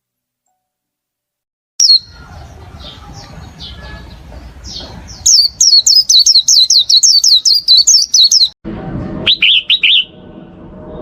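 Silence for nearly two seconds, then a small bird chirping: scattered high chirps, then a fast run of about five chirps a second for some three seconds, and a short burst of chirps near the end, over light background noise.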